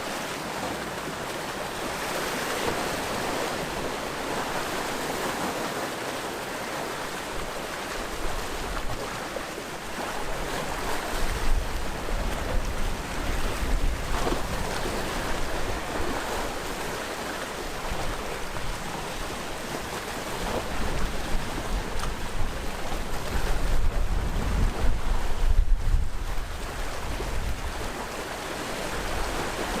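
Sea waves washing onto the shore in a steady rushing hiss. Louder surges with a deep rumble come about a third of the way in and again near the end.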